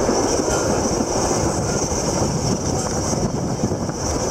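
Steady running noise of a passenger train in motion: wheels rumbling along the rails, heard from aboard a carriage.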